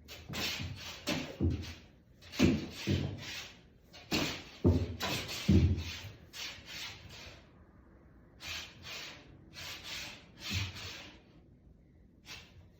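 A cat playing hard with a cat-teaser wand: irregular bursts of rustling and scuffling, with several heavy thumps, loudest in the first six seconds and again briefly near the end.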